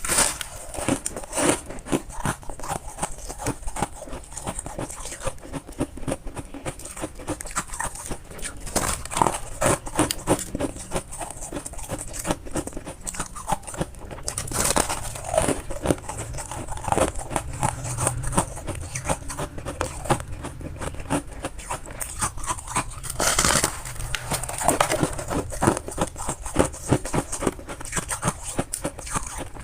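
Close-up chewing and crunching of freezer frost, a dense run of crisp crunches with louder bites every few seconds.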